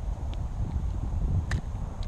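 Uneven low rumble of wind and rubbing on a chest-mounted action camera's microphone, with a sharp click about a second and a half in.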